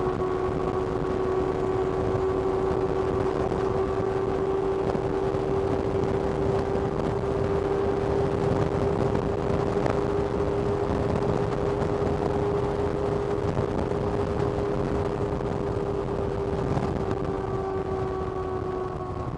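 2025 Kawasaki ZX-6R's inline-four engine running at nearly steady revs on the move, the note easing down a little near the end, over a steady rushing noise.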